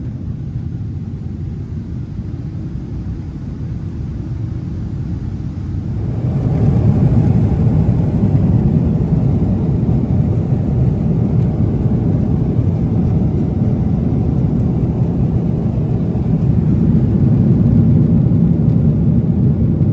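Steady engine and airflow rumble inside the cabin of a Boeing 777-300ER airliner. About six seconds in it grows louder and fuller, then holds steady.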